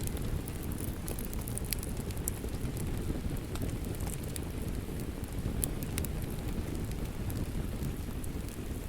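Wood fire crackling, with scattered sharp pops and snaps over a steady low rumble, mixed with rain falling.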